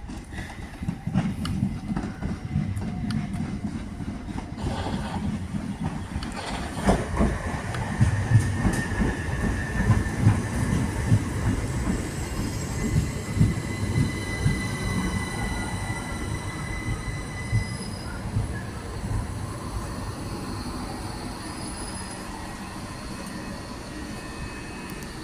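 Train running through the station: a low rumble with wheels knocking over rail joints, loudest around the middle. High, steady squealing tones from the wheels and brakes come in about halfway and fade toward the end.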